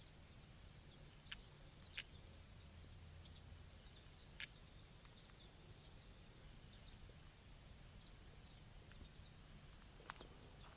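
Faint dawn birdsong: many short, high chirps scattered throughout, with a few sharper single notes, over a faint steady low hum.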